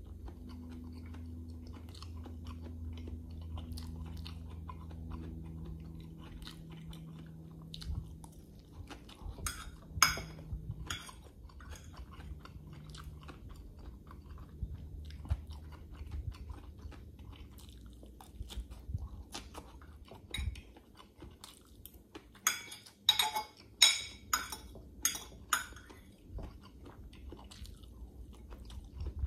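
Close-up mouth sounds of a person eating stir-fried instant noodles (pancit canton): chewing and wet smacking, with a few clinks of a fork on a glass bowl. A quick run of loud smacking clicks comes about 22 to 26 seconds in as a big forkful goes into the mouth.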